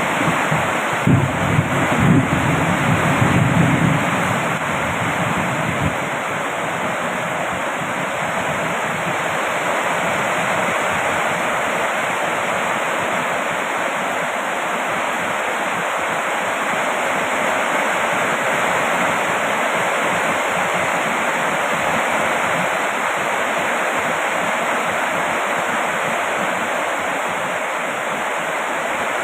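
Steady heavy rain: an even, unbroken hiss of downpour. During the first few seconds a low rumble sits under it and then fades away.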